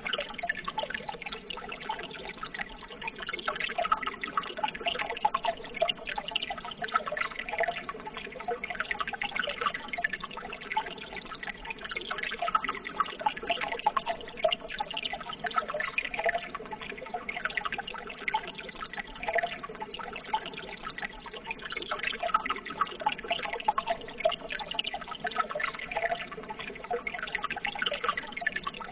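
Running water babbling steadily, a dense stream of small splashes and bubbles.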